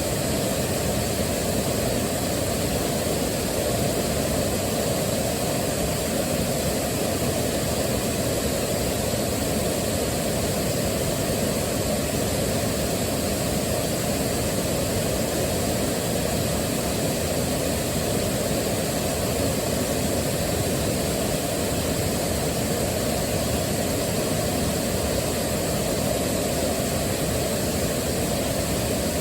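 Waterfall, a steady rushing of falling water with most of its weight in the low end and no changes.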